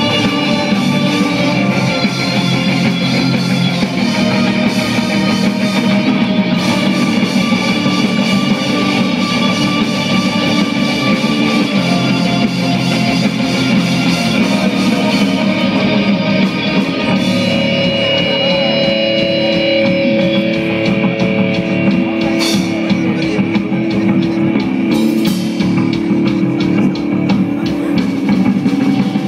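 Live rock band playing with electric guitars and a drum kit.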